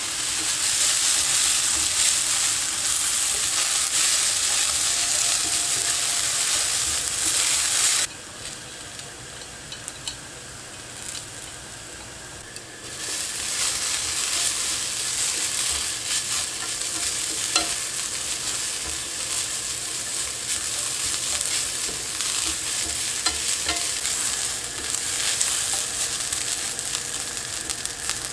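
Shredded potato strips sizzling in oil in a frying pan as they are stir-fried, with light ticks of the spatula. The sizzle drops abruptly to a low hiss about a third of the way in and picks up again a few seconds later.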